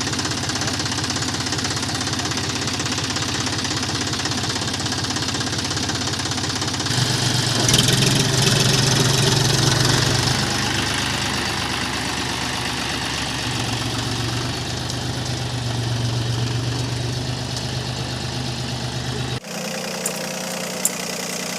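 John Deere tractor's diesel engine running steadily with a fast regular chug, growing louder about a third of the way in and easing off again. Near the end the sound cuts abruptly to a quieter, steadier engine.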